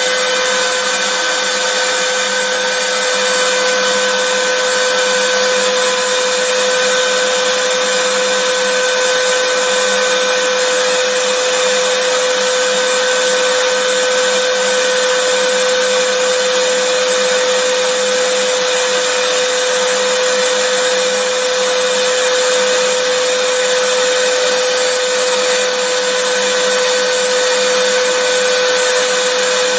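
Vacuum cleaner motor running steadily: an even, unchanging hiss with a constant hum-like whine.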